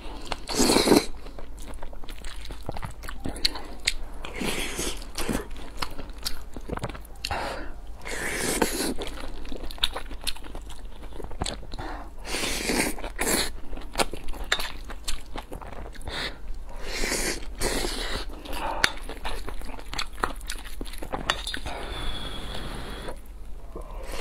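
Close-miked chewing and lip smacking of soft, wet mouthfuls of rice with braised eggplant and tomato scrambled egg, with many short clicks throughout.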